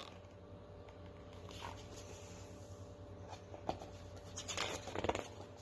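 Paper book page being handled and turned: soft rustling and a few light clicks, with a louder rustle about five seconds in, over a faint steady hum.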